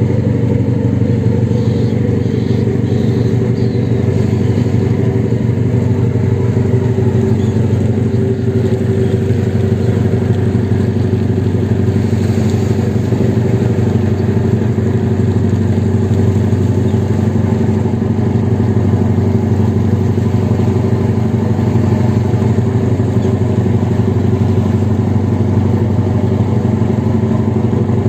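An engine running steadily at constant speed, a low even drone that does not rise or fall.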